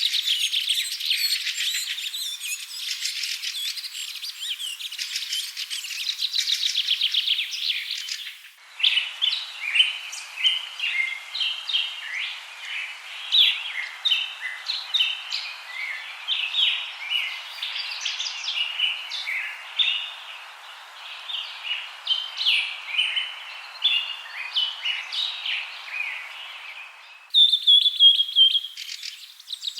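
Songbirds chirping and singing. For about the first eight seconds there is a dense run of rapid trills. Then the sound changes abruptly to many short, separate chirps over a faint hiss, and near the end it switches abruptly again to a falling whistled note and fast trilling.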